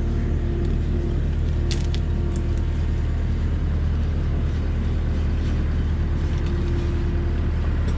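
Skid steer engine running steadily under load as the machine drives across a makeshift crossing, with a few sharp metallic clinks about two seconds in.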